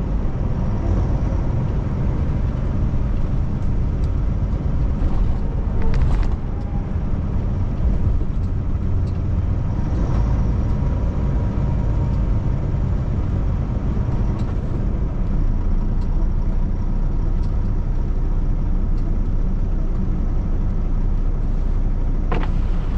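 Semi-truck cab interior while driving: steady low engine and road rumble from the Kenworth T680. A brief sharp knock or rattle comes about six seconds in, and another near the end.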